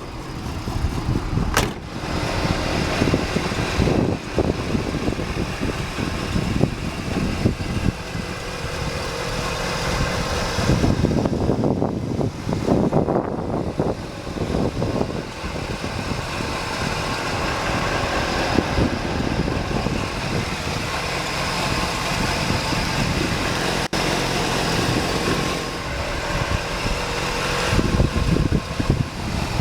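1983 Buick Riviera's 5.0-litre V8 idling steadily, with a few louder low rumbles along the way.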